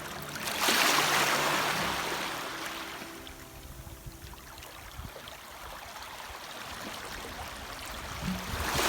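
Sea surf washing in: a surge of rushing water swells about half a second in and fades away over the next two seconds, and another swell builds near the end.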